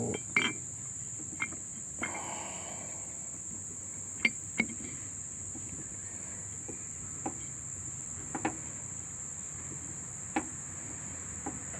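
Crickets chirping as a steady high drone, with scattered light clicks and knocks from a greased brake caliper piston being worked in and out of its bore, the sharpest a pair of clicks about four seconds in.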